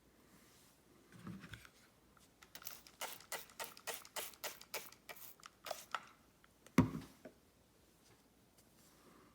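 Straight razor being honed on a wet Naniwa water stone: a quick run of about a dozen short scraping strokes of the blade across the stone, then a single thump.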